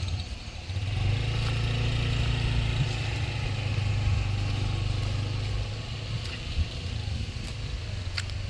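Small motorbike engine running steadily at low speed, easing off slightly about two-thirds of the way through.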